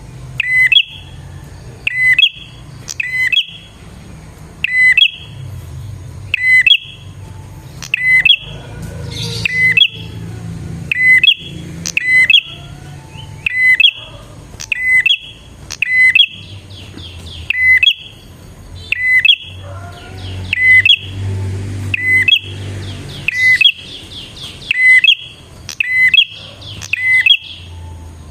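Prenjak (prinia) calling briskly: a sharp chirp repeated about once a second, broken in places by short, rapid chattering trills.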